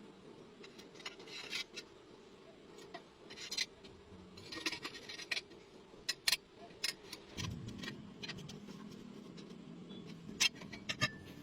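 Scattered light metal clinks and taps with a few short scrapes, as metal pipe pieces are handled and worked, over a low steady hum.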